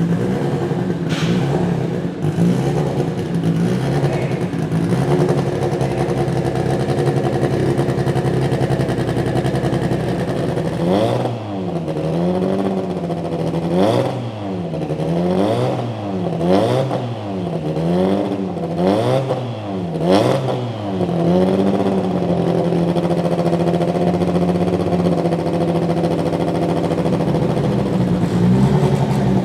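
Turbocharged BMW S14B20 inline-four of a BMW E36 race car warming up: it idles steadily, then about a third of the way in it is revved about seven times in quick succession, each rev rising and falling, before settling back to a steady idle.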